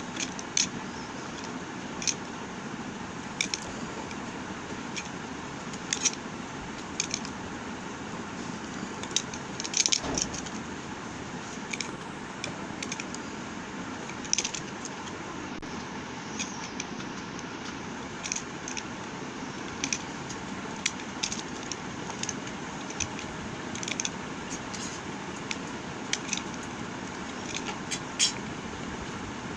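Bar soap being handled close to the microphone: short, crisp scrapes and crackles at irregular intervals, about one a second, over a steady background hiss.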